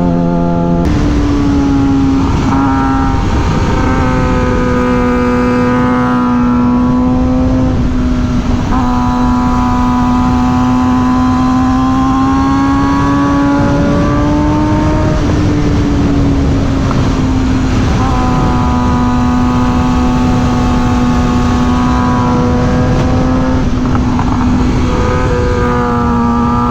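Suzuki GSX-R600's inline-four engine running at fairly steady high revs while riding, with the revs stepping up about a second in and rising and easing slightly midway, over steady wind rush.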